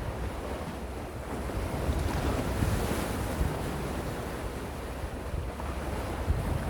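Gentle ocean waves washing on the shore, one swell building about two seconds in and easing off, with low wind rumble on the microphone.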